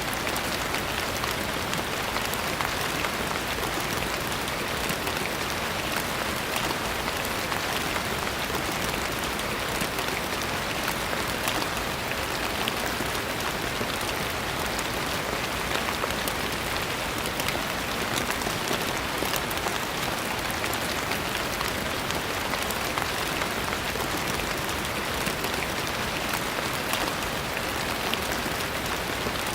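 Steady rain falling on a surface: an even hiss with many small drop ticks, no change in strength.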